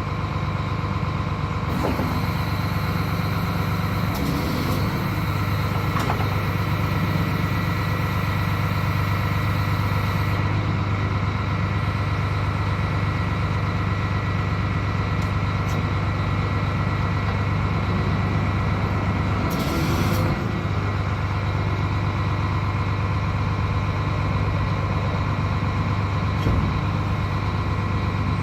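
A DAF CF75.250 refuse truck's Euro 5 diesel engine running at a steady idle, a continuous low hum. There are a few brief clicks, and a short hiss comes about twenty seconds in.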